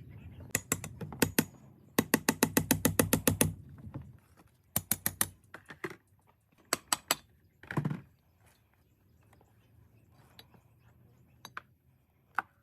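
Mechanical clicking in short bursts. The longest is a fast, even run of about nine clicks a second lasting a second and a half, followed by a few shorter groups and a single click near the end.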